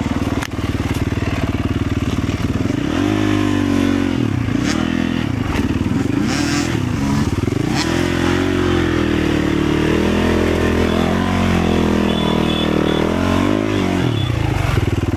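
Motorcycle engine running under way, its revs rising and falling over and over as the throttle is opened and closed.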